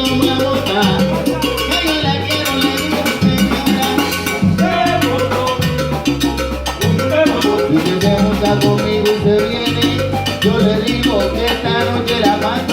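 Salsa band playing live: a dense, steady percussion rhythm with a bass line underneath and melodic instruments above.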